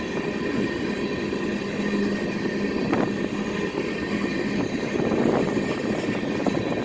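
Freight train rolling past on the track: a steady low rumble of wheels on rail, with a low hum that fades out partway through and a single sharp clank about halfway in.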